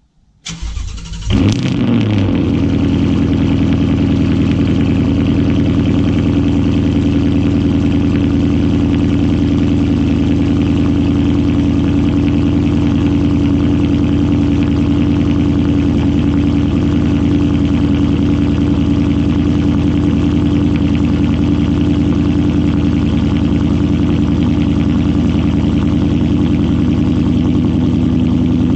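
2020 Ford Mustang GT's 5.0-litre V8, exhausting through a Steeda H-pipe and MBRP axleback with the mufflers deleted, cold-started: the starter cranks briefly about half a second in, the engine catches at about a second and a half, then runs at a steady, loud cold idle.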